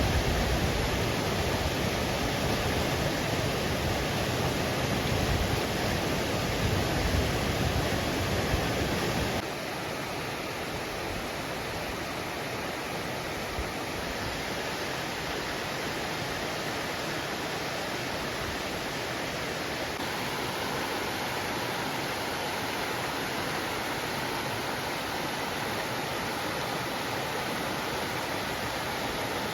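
Yasu-no-taki waterfall rushing in a steady roar. About nine seconds in, the sound abruptly becomes quieter and thinner, losing its deep rumble.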